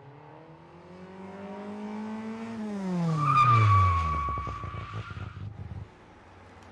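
Car engine note climbing slowly in pitch, then falling away steeply, with a steady high squeal over the loudest part in the middle.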